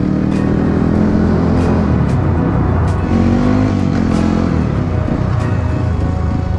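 Trail motorcycle engine running on the move, its revs rising and falling about three seconds in, under background music with a steady beat.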